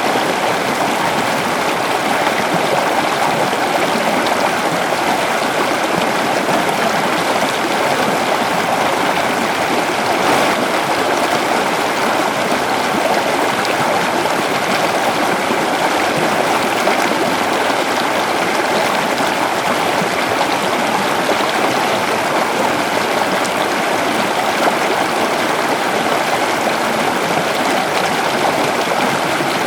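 A shallow river flowing steadily over stones: an even, continuous rush of water with gurgling.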